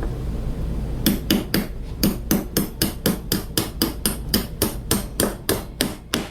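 Hammer striking a bolt in a rapid run of about twenty blows, roughly four a second, beginning about a second in.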